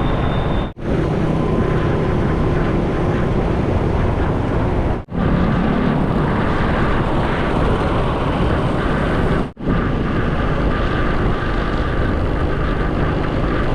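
Motorcycle riding at speed: a steady rush of wind and road noise over the camera's microphone, with the engine underneath. Three brief, sharp dropouts break it, about every four and a half seconds.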